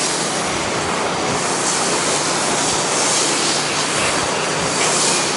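Pressure washer spraying bleach solution through a low-pressure downstream-injection nozzle onto a wooden deck: a steady hiss of water spray.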